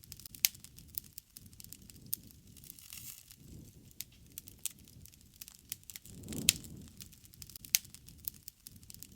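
Wood campfire crackling, with irregular sharp pops from the burning wood over a soft, low rush of flame that swells now and then; the loudest pop comes with a swell about six and a half seconds in.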